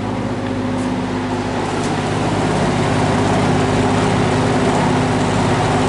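Vintage GE W12 box fan running steadily at speed: a low motor hum with a rush of moving air, rising slightly in level over the first couple of seconds.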